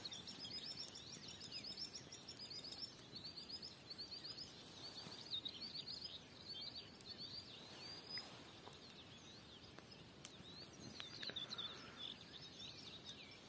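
Small birds singing faintly: a steady stream of quick, high chirping notes, several a second, over a soft outdoor hiss.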